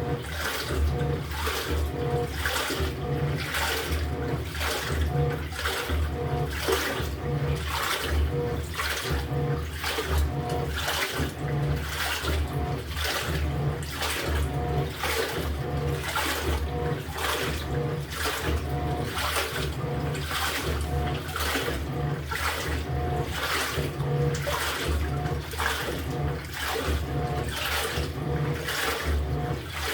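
LG top-loading pulsator washing machine agitating water and laundry: a regular swishing rhythm, roughly once a second, over the pulsing hum of the drive motor.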